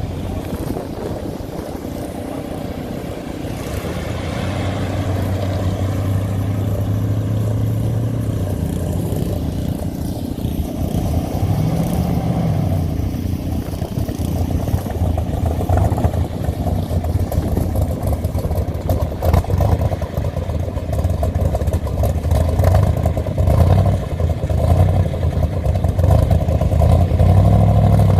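Hot rods and show cars driving out one after another, their engines running with a low note that rises and falls as they pull away and rev.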